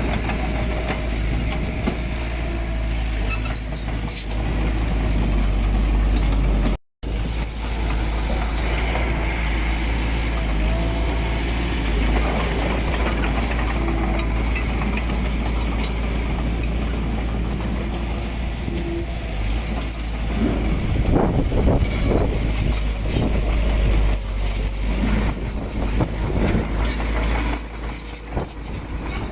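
Heavy diesel earthmoving machinery running, a steady low engine drone with metallic clanks and rattles that grow louder and busier about two-thirds of the way in. The sound cuts out abruptly for a moment about seven seconds in.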